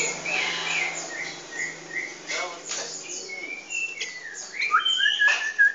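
Small pet birds chirping in a quick run of short chirps, with a longer held whistled note near the end.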